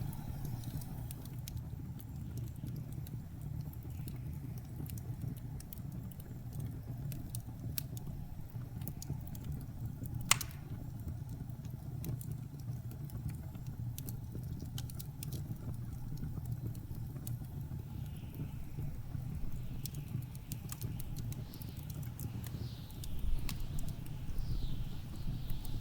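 Wood fire crackling with scattered sharp pops, one much louder pop about ten seconds in, over the steady low rumble of blizzard wind. Near the end, wind gusts swell and whistle, rising and falling.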